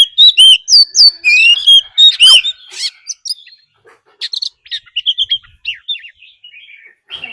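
Oriental magpie-robin singing: loud, sliding whistled phrases for about three seconds, then softer, quicker notes.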